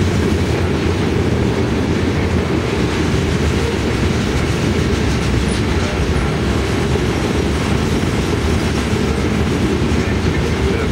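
Union Pacific freight train's covered hoppers and tank cars rolling past on their steel wheels: a loud, steady, heavy rumble of wheels on rail.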